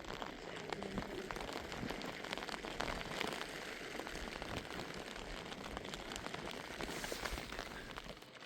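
Steady rain falling on a surface: a dense hiss made of many small drop ticks.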